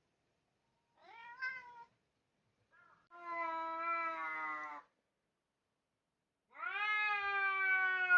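Domestic cat meowing three times: a short wavering meow, then two long drawn-out meows that sink slightly in pitch, the last starting past the middle and still going at the end.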